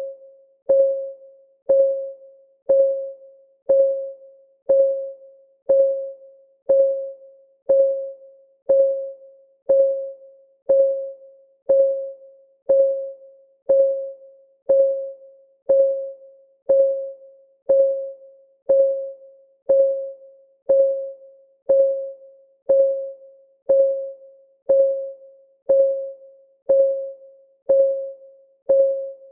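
Clock ticking sound effect: a short, ringing tick about once a second, perfectly steady and even.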